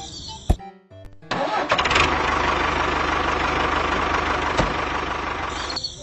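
A click, then an engine starts and runs steadily with a constant low hum for about four seconds before stopping near the end.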